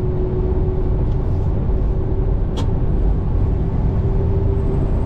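Semi truck engine and road noise heard from inside the cab while driving: a steady low rumble with a constant hum, and a short click about two and a half seconds in.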